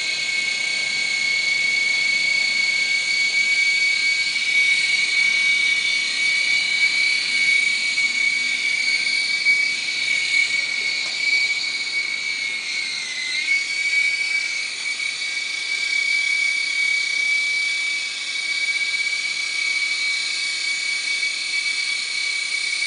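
Micro RC helicopter's tiny electric motors and rotors running with a steady high-pitched whine; the pitch sags briefly about halfway through, then recovers. The owner suspects one of the motors is failing, since the battery is fine but the helicopter won't climb.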